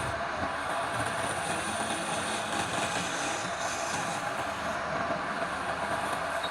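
Wood lathe running with a turning tool on the spinning wood: a steady, even rushing and scraping noise that does not let up.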